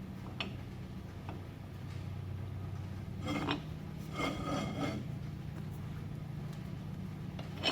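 Light metal clicks and clinks of bolts and tools being worked into a truck's front hub, with two short squeaky scrapes in the middle, over a steady low hum.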